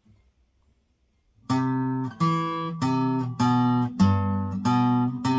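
Acoustic guitar strummed: after a short silence, seven evenly spaced chord strokes about two a second, with the chord changing between strokes, the last one left ringing.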